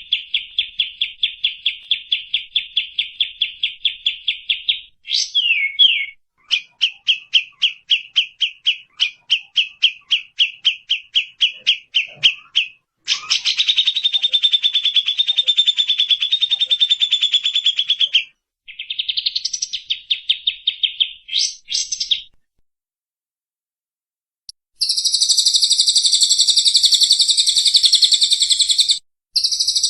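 Recorded songbird calls spliced together for a bird-song training track: fast, evenly repeated chirping trills, then a buzzier trill, and after a short break a louder, higher rapid chatter.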